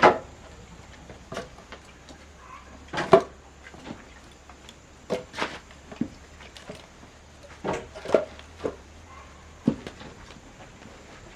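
Irregular knocks and clunks of wood being handled, a dozen or so, the loudest right at the start and about three seconds in.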